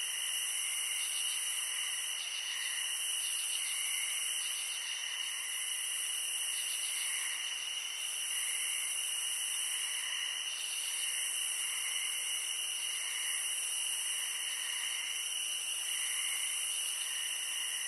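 Steady high-pitched insect chorus, with several constant shrill pitches and softer pulsing calls repeating about once a second.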